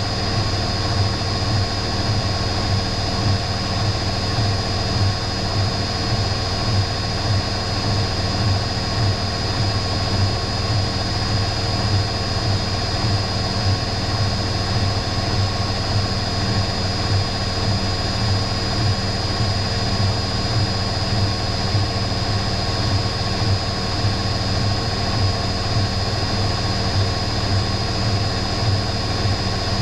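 Electrolux EW6S404WU washing machine running steadily: a constant motor whine over a low hum, with no change in speed or pitch.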